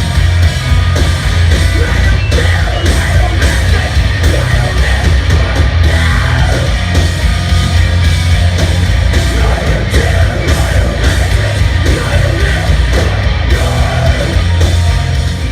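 Loud heavy rock music with yelled vocals, driving drums and a heavy, distorted low end.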